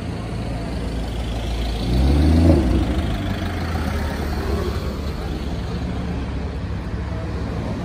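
Cars and a van driving slowly past close by, engines running. About two seconds in, one engine is revved briefly and rises in pitch as it accelerates away.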